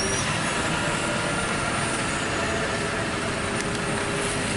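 MARC bi-level commuter train rolling past, a steady rumble and rush of wheels on the rails.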